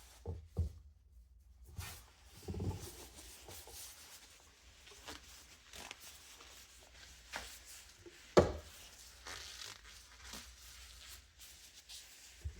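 Handling noises from work on a box fan's motor: irregular rubbing and scraping with scattered light clicks, and one sharp knock a little past the middle.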